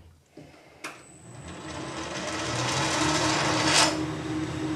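Metal lathe switched on with a click about a second in, its motor running up to speed with a rising steady whine and hum. Near the end comes a brief scrape as the 45-degree tool cuts a chamfer on the stainless steel bar.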